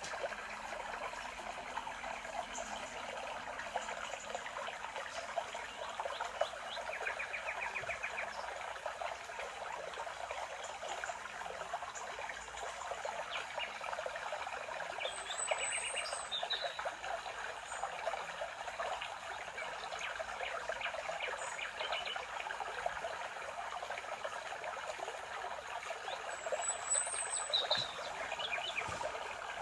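Songbirds chirping and giving short trills over a steady background rush, in a spring forest.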